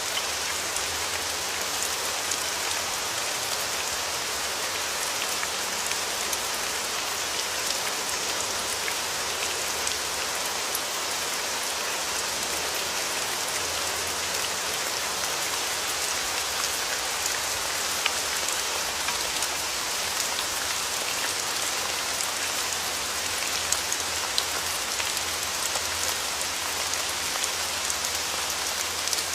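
Steady rain falling, with many individual drops ticking on a surface over a constant hiss. A few slightly louder drops stand out here and there.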